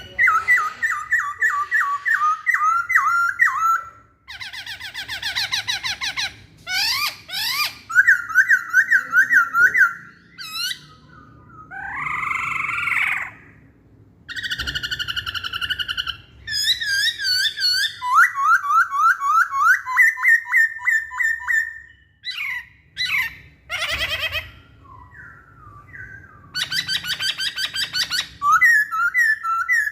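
Masked laughingthrush (poksay hongkong) singing loudly: bursts of rapidly repeated whistled and chattering notes, several a second, changing phrase every few seconds with short pauses between.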